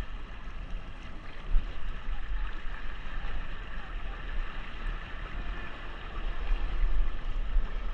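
Wind buffeting the microphone over water rushing along the hull of a Hobie Cat under sail, a steady wash with gusting low rumble.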